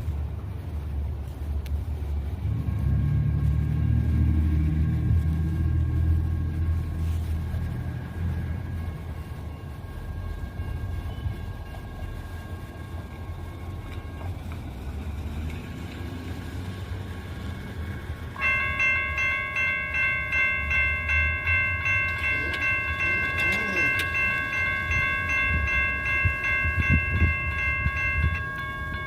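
Light rail train running by with a low rumble, loudest a few seconds in. About two-thirds of the way through, an electronic warning bell starts ringing in a steady, rapid pulse over the train noise.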